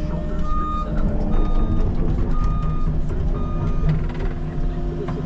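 Reversing alarm on earthmoving machinery beeping four times, about one beep a second, over the machine's engine running steadily.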